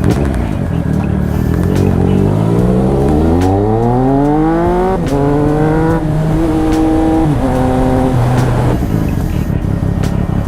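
Triumph Speed Triple RS's three-cylinder engine through an SC Project titanium exhaust, accelerating hard with a steadily rising pitch, then upshifting several times, the pitch stepping down at each shift before holding steady.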